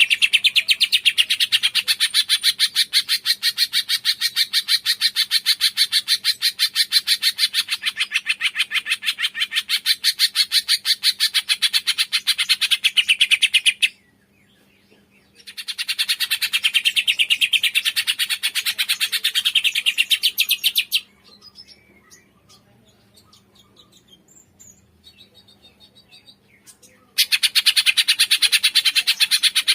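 Cungkok songbird singing a rapid, rhythmic run of repeated chirps, many notes a second, in long bouts. The run breaks off briefly at about the middle, then stops for several seconds with only a few faint notes before starting again near the end.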